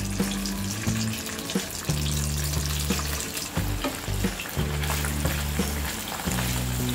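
Cubes of paneer sizzling in hot ghee in a non-stick frying pan, with scattered small pops and a wooden spatula pushing them around. Low held notes of background music sound underneath.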